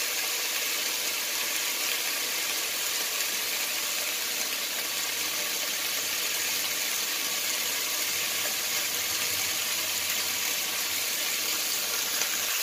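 Pork chops sizzling steadily as they fry in a pan, left to brown undisturbed.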